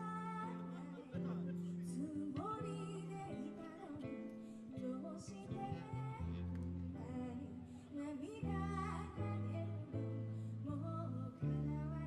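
A song performed live: a singer over guitar, with low bass notes changing about once a second.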